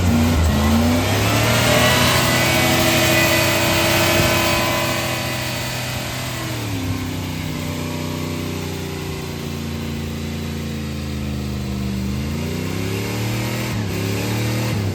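Turbocharged Dodge pickup engine revving up and holding, then dropping back to a low, steady run about halfway through and climbing again near the end. Over the higher revs there is a high whine from the newly fitted turbocharger.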